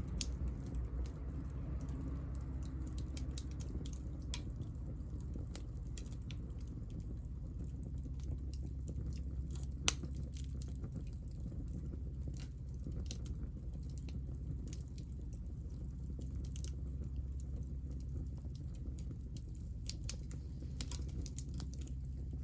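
Hinoki (Japanese cypress) offcuts burning in a small fire: scattered crackles and ticks over a steady low rumble, with one sharper pop about ten seconds in.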